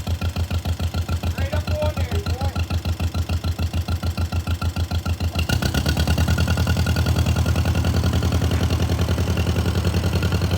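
1948 John Deere M tractor's two-cylinder engine running with an even, low putt-putt beat. About halfway through, it speeds up and gets louder as the throttle is opened.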